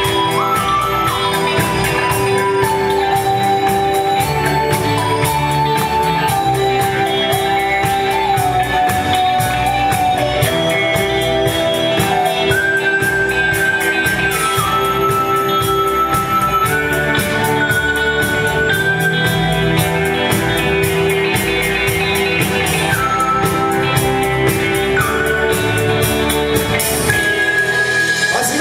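Band playing a rock song: a lead melody of held, stepping notes over guitar, with tambourine-like percussion keeping a steady beat.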